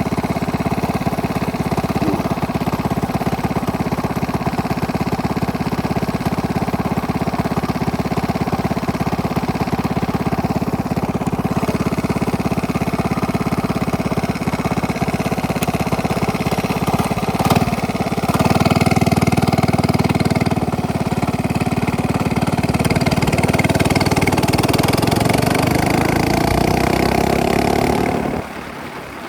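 Minibike engine with a straight-pipe exhaust, running loud and steady while being ridden. A little past halfway there is a sharp knock, then the engine gets louder and its pitch climbs steadily as it speeds up, before the sound drops away suddenly near the end.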